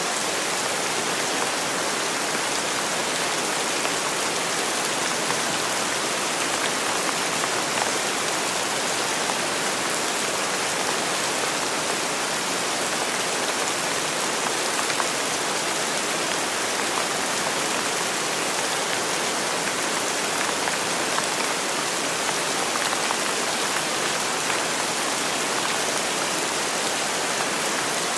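Steady, even rain falling and pattering on surfaces, with faint individual drop ticks.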